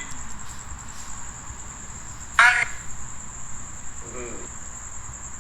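A single loud, short, frog-like croak about two and a half seconds in, then a fainter, lower call near four seconds, over a steady high-pitched whine.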